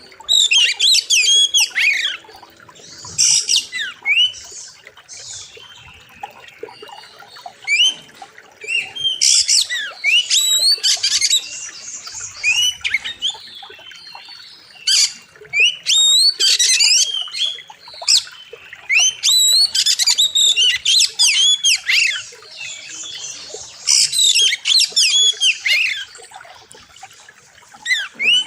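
Oriental magpie-robin singing loud, rapid phrases of sharp, sweeping whistles and harsh notes, coming in bursts of a second or two with short pauses between.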